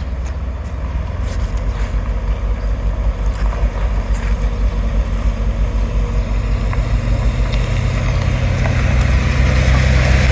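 Heavy diesel engine of a construction machine running steadily, growing louder over the last few seconds, with a few faint knocks early on.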